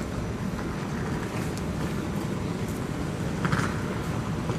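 KTX high-speed train giving a steady low rumble as it moves along the platform, with a short higher-pitched burst about three and a half seconds in.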